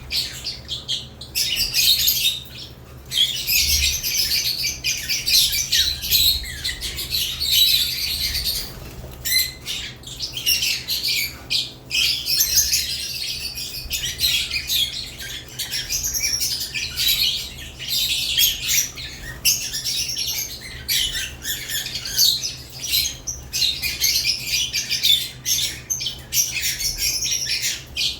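Lovebirds in a cage chattering: a near-continuous jumble of high chirps and squawks with only brief pauses, over a faint steady low hum.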